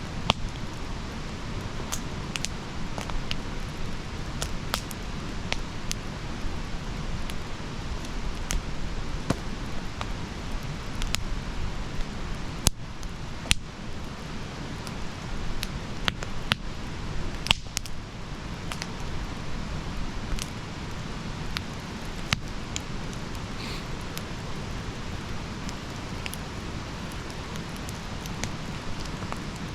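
Wood campfire burning: a steady low rush of flames with irregular sharp crackles and pops from the burning wood. A few pops stand out louder near the middle.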